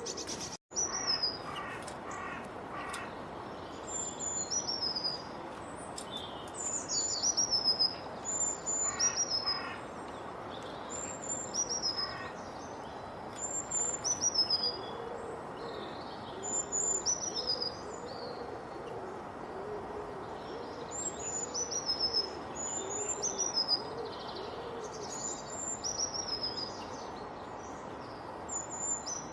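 Several birds singing: a high, clear phrase of downward-sliding whistles repeats every second or two, with a lower, wavering call repeated several times in the middle and a steady background hiss. The sound cuts out briefly just after the start.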